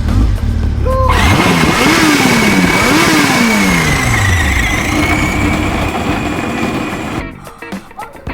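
Motorcycle engine sound starting up and revving, its pitch climbing and falling several times, then dying away about seven seconds in.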